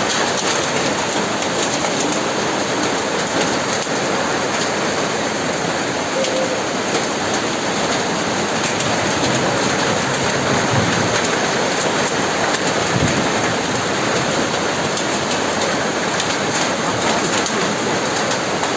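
Heavy hail falling and pelting hard surfaces: a dense, steady clatter of countless small impacts.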